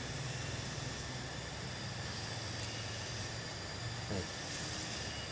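Steady rushing of fast river water flowing at a weir, an even hiss with a low rumble under it.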